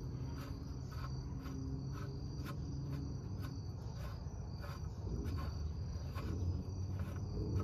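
Crickets chirping steadily, a few chirps a second, over a low steady background hum.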